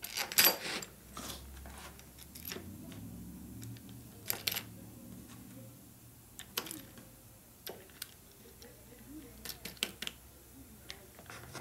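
Light metallic clicks and clinks of steel rocker arm parts being handled and worked on their shafts, scattered and irregular, with a low steady hum from about one to five seconds in.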